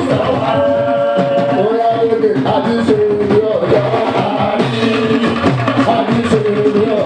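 Live Fuji music: a sung lead line with long held, wavering notes over steady hand-drum percussion.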